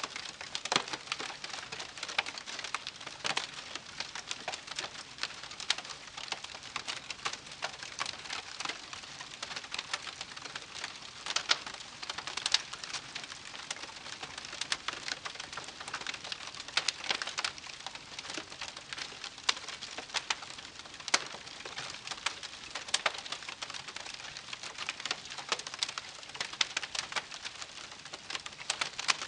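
Wood campfire crackling, with dense irregular pops and snaps over a steady hiss and a few louder sharp cracks.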